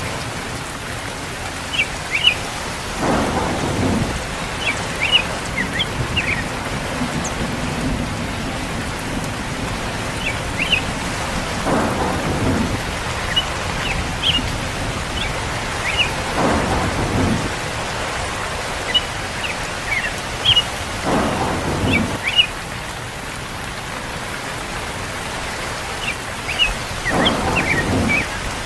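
Steady rain during a thunderstorm, with low rumbles of thunder swelling up about every four to five seconds. Short high chirps sound here and there over the rain.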